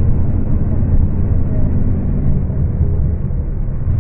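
Diesel engine of a Scania K250UB city bus running under way, a steady low drone, captured on a phone microphone.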